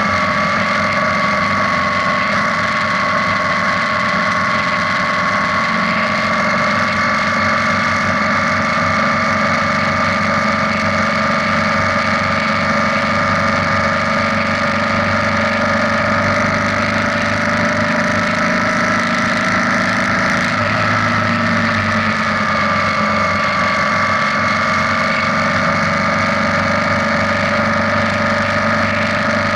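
BMW R nineT's 1170 cc boxer twin running steadily at cruising speed, with road and wind noise, inside a road tunnel; the engine note eases slightly a little past two-thirds through, then comes back up.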